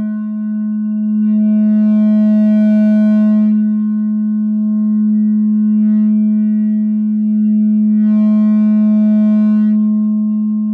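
No-input mixer feedback drone, a two-channel mixer fed back on itself through an effect pedal: a steady low tone with a stack of overtones above it. A band of high overtones swells in about a second in, fades, then swells in again near the end.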